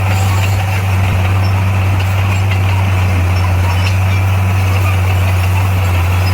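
Heavy diesel engine of earthmoving equipment running steadily with a constant low drone.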